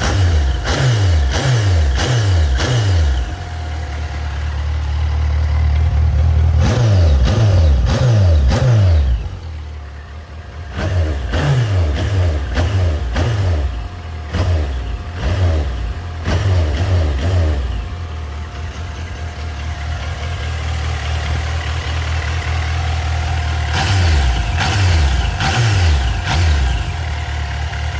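Suzuki GSX1250FA's inline-four engine running after a fresh oil and filter change, revved in bursts of quick throttle blips, each a short rising sweep in pitch, and settling back to idle between the bursts.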